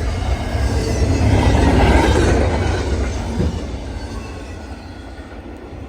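Train passing by, a heavy low rumble with wheel and rail noise that swells to its loudest about two seconds in and then fades away as it moves off.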